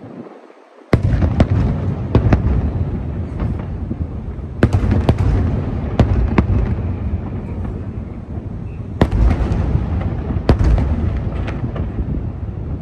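Fireworks show: aerial shells bursting in clusters of sharp bangs over a continuous low rumble of booms. After a brief hush, the sound cuts in loud about a second in.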